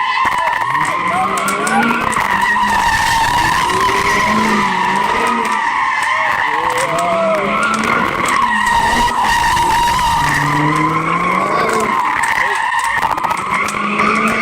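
A car drifting: tyres squealing in a long, steady, wavering screech while the engine's revs rise and fall over and over under the throttle.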